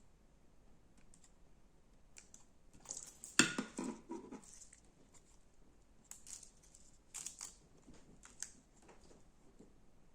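Slime being pressed and squeezed by hand, crackling and popping in short bursts, with one sharp snap about three and a half seconds in.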